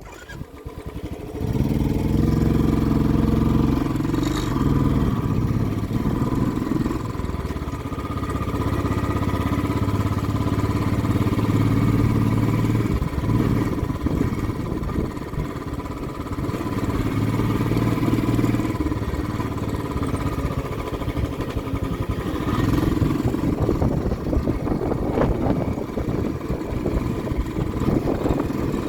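Motorcycle engine running while riding. It starts about a second and a half in, and its pitch shifts up and down several times with the throttle and gears, over a steady rushing noise.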